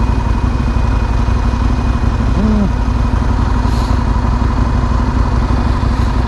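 Motorcycle riding noise: a 2008 Yamaha R6's inline-four engine running steadily under wind rush, at an even, loud level. A short pitched note, arching up and down, cuts in briefly about two and a half seconds in.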